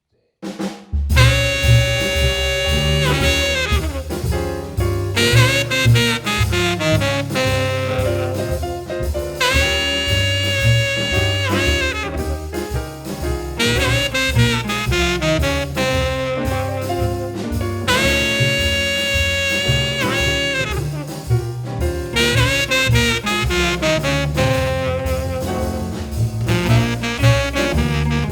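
Swing-style jazz band playing: saxophones and brass hold long notes in a riff that repeats about every four seconds, over a steady bass and drum beat. The music starts about a second in.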